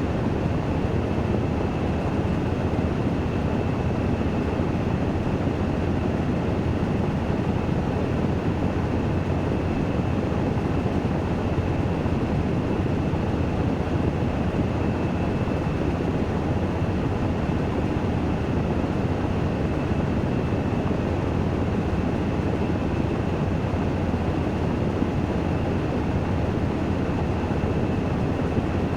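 Washing machine in its spin (dehydration) cycle, running steadily: an even rushing noise with a low hum and a faint high-pitched whine.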